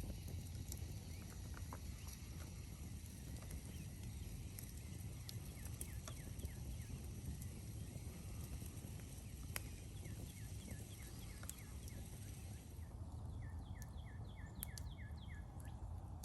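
Outdoor ambience: a steady low rumble with scattered faint clicks, and two runs of short, quick, falling chirps, about four a second, one in the middle and one near the end.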